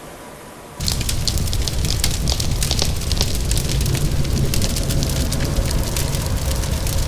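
Soft rain hiss, then about a second in a crackling wood fire cuts in abruptly and louder: dense, irregular pops and snaps over a steady low rumble.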